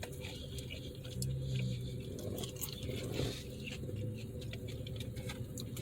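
Quiet mouth noises and small clicks of someone eating McDonald's french fries, over a low steady hum.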